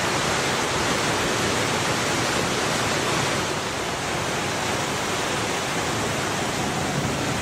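Rushing floodwater: a steady, even rush of fast-flowing water.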